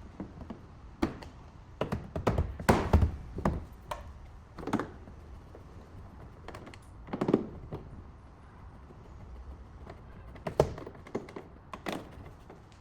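Irregular knocks and taps, with a quick cluster of them about two to three and a half seconds in and single ones spread through the rest.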